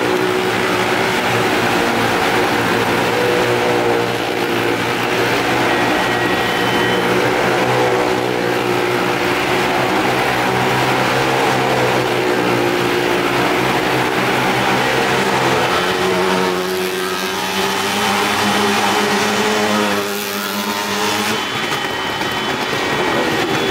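Engines of Maruti 800 cars and motorcycles running steadily as they ride round the wooden wall of a well-of-death pit. The sound dips a little about twenty seconds in.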